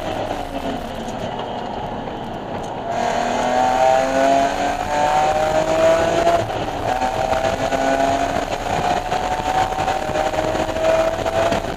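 BMW E46 M3's inline-six engine under hard acceleration on track, its pitch climbing through the gears. It gets louder about three seconds in.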